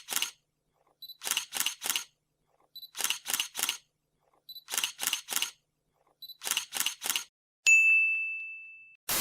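Intro sound effects in the style of a camera: five times over, a short beep followed by three quick shutter clicks, about every 1.7 seconds. Near the end comes a single bell-like ding that rings out for over a second.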